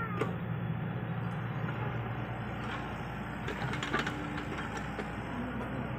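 Heavy-equipment diesel engine running steadily at a low, even pitch, with a short spell of clattering and scraping a little past halfway.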